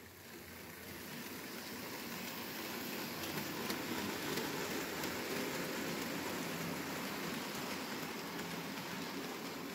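Märklin H0 model freight train rolling over metal M-track, making a steady rattling clatter of wheels on the tin rails. It grows louder over the first few seconds, then holds steady.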